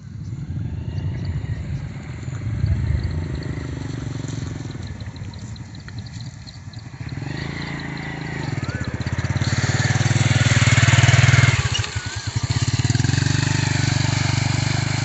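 Motorcycle engine running close by with a steady low beat. It gets louder about halfway through, dips briefly, then settles back to a steady run.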